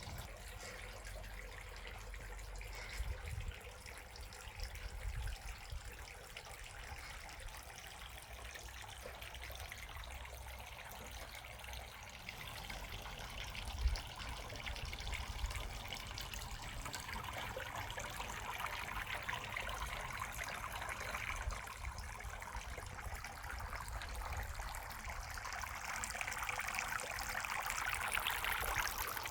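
Water trickling steadily, growing louder over the last few seconds, with a few low bumps underneath.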